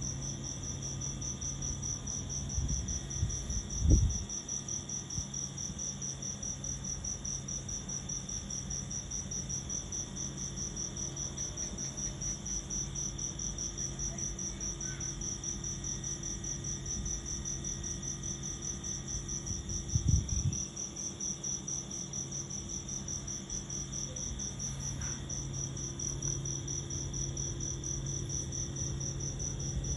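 A cricket chirping continuously, an evenly pulsed high-pitched trill that keeps a steady rhythm throughout. Two brief dull thumps break in, about four seconds in and again about twenty seconds in.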